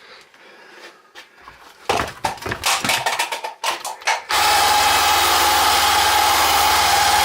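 Clicks and clatter of handling, then a power tool switches on about four seconds in and runs steadily at full speed with a constant whine.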